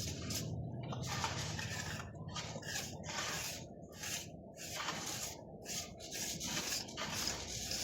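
Rough rubbing or scraping strokes on a hard surface, coming unevenly several times a second.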